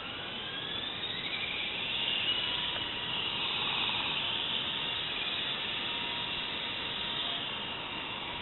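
Double Horse 9053 electric RC helicopter's motor and rotors spooling up, the whine rising in pitch over about the first second, then holding a steady high whine with rotor hiss in flight.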